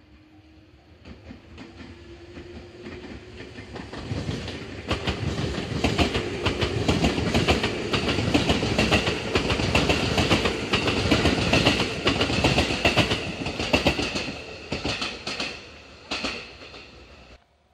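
JR West 221 series electric train passing close by: its running sound builds as it approaches, is loudest as the cars go past with a rapid run of wheel clicks over the rail joints, then fades and cuts off abruptly near the end.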